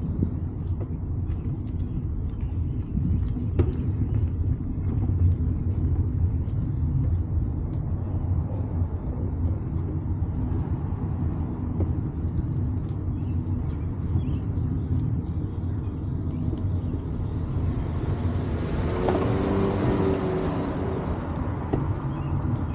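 Steady low rumble of wind buffeting the microphone while riding a bicycle, with scattered light clicks. Near the end a car passes, swelling up and fading away.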